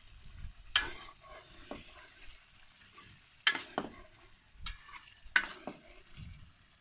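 A spoon stirring and scraping thick chicken karahi masala in a karahi as it fries down, with a handful of sharp clinks against the pan at uneven intervals over a faint sizzle.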